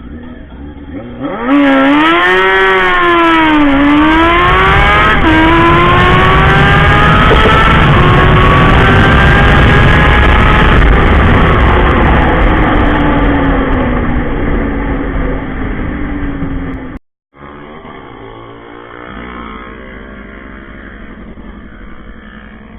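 A modified drag-racing motorcycle launches and revs hard, its engine note climbing and dropping as it shifts up through the gears, then fading as it runs away down the strip. After a sudden cut, a quieter engine runs in the background.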